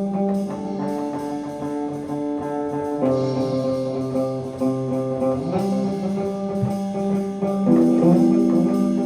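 Guitar music: held, ringing chords that change every two to three seconds.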